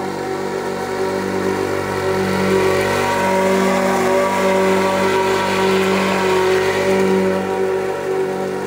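Husqvarna lawn tractor engine running steadily under load. It grows louder about two and a half seconds in and eases off again near the end.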